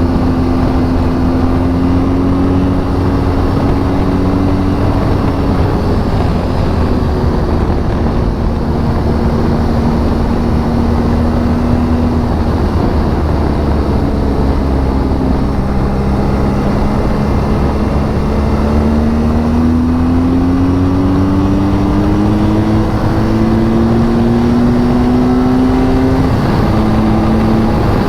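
BMW R1200 GS flat-twin engine running at motorway cruising speed over a steady rush of wind and road noise. The engine note climbs slowly through the second half, then drops suddenly near the end.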